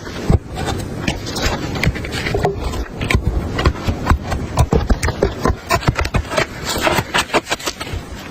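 A busy, irregular run of sharp clicks, knocks and scrapes, as of wood or gear being handled, over a low rumble.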